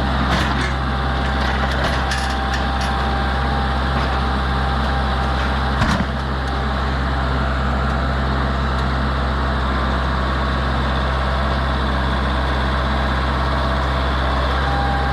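Tractor engine running steadily at idle, a low, even drone, with a few light clicks early on and one sharp knock about six seconds in.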